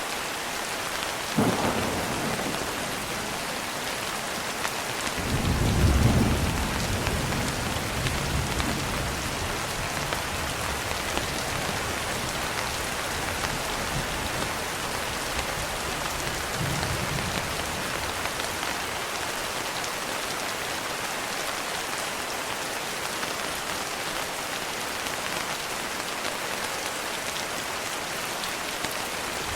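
Steady rain with thunder: a sharp clap near the start, then a long low rumble about five seconds in that rolls off over several seconds, and a fainter rumble later on.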